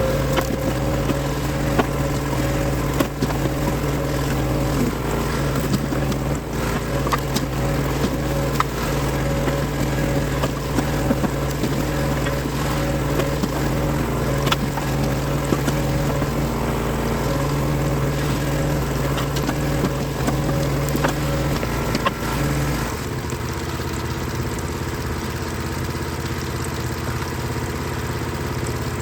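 Engine running steadily, with scattered sharp knocks and clicks over it. About three quarters of the way through, the engine note changes and settles into a different, steadier sound.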